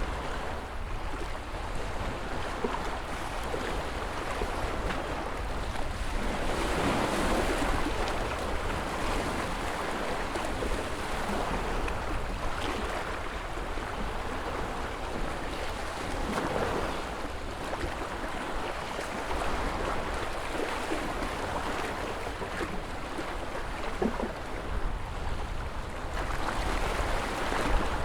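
Ocean surf: a steady rush of waves with a low rumble, swelling louder as a wave breaks roughly every ten seconds.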